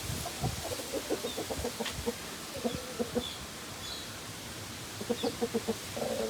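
Aseel chickens clucking in quick runs of short repeated notes, one run near the start and another about five seconds in, with faint high chirps of small birds behind.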